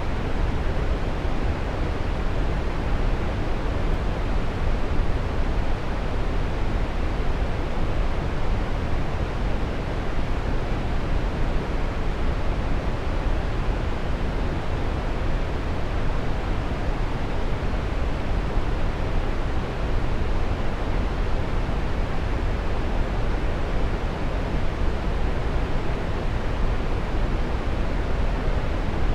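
Waterfall: a steady rush of falling water, deep and even, with no breaks or changes.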